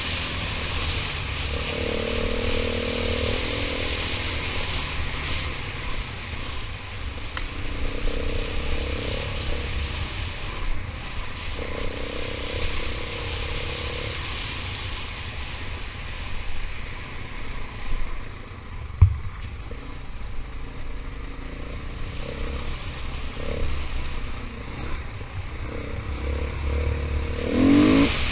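KTM 500 EXC single-cylinder four-stroke dirt bike running over a rough trail, its engine note rising and falling with the throttle under a constant low rumble. A single sharp thump comes a little past the middle.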